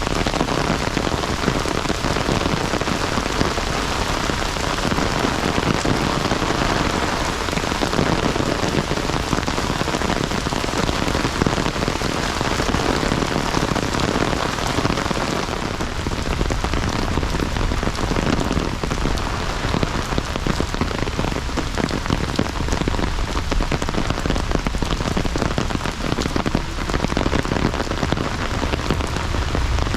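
Heavy rain pouring down with a dense, steady patter and splash. From about halfway through, a deeper low rumble builds underneath.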